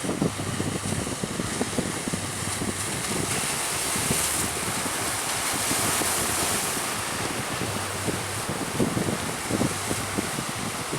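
Strong wind buffeting the microphone over the rush of rough sea waves, with a gust of wash swelling about four to six seconds in.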